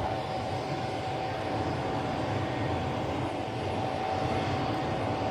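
Jet airliner's engines at a distance during a takeoff run: a steady, even rumble with a thin steady whine.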